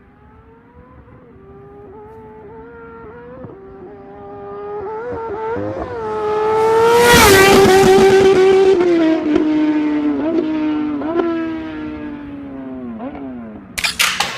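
Superbike flyby: the engine accelerates hard through the gears as it approaches, its pitch climbing and dipping at each upshift. It is loudest as it passes about seven seconds in, then recedes with its pitch falling away.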